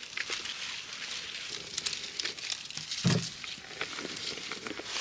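Grapevine leaves and stems rustling and crackling as bunches of grapes are handled and picked, with many small irregular crackles and a short dull thud about three seconds in.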